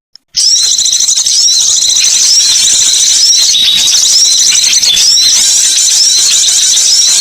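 Recorded bird lure call of small songbirds: dense, loud, high-pitched chirping and twittering, with a short phrase repeating about once a second, after a brief break right at the start.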